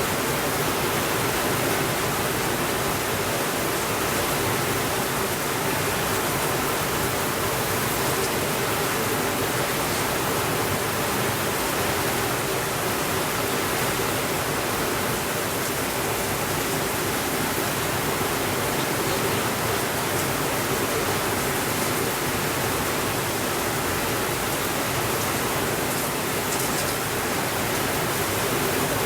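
Steady rainfall: an even, unbroken rushing hiss with no thunder.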